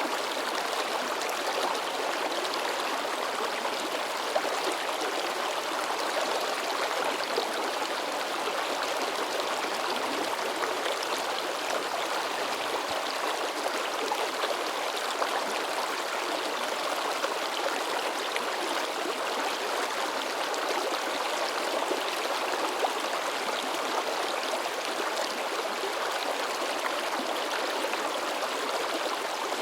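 Shallow mountain river babbling and splashing over rocks, a steady, unbroken rush of water with small splashes.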